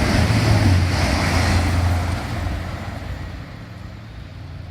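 A train passing through the station at speed: a loud rush of wheel and air noise over a low rumble, easing off after about two seconds and fading away.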